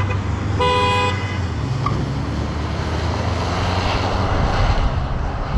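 A car horn gives one short honk about half a second in, over steady road traffic and wind noise.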